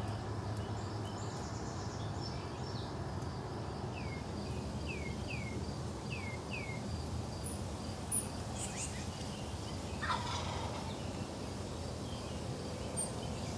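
Wild turkeys gobbling at a distance, jakes (young males), in a run of quick falling notes near the middle and another call about ten seconds in, over a steady low rumble.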